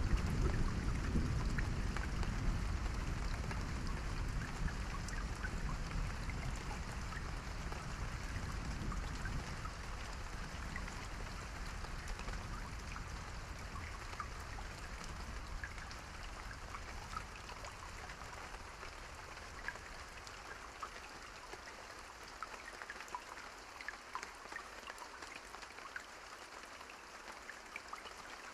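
Steady rain falling, with individual drops ticking close by, and a low rumble of thunder dying away over the first twenty seconds or so.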